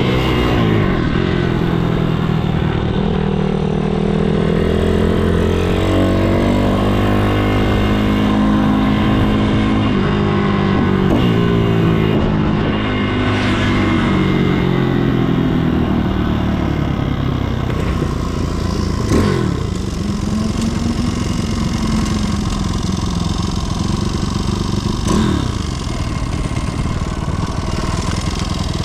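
MRF 160-R SM pitbike's single-cylinder four-stroke engine being ridden hard. Its pitch climbs and falls as it accelerates and slows, with sudden drops about ten, nineteen and twenty-five seconds in as the throttle closes or it shifts.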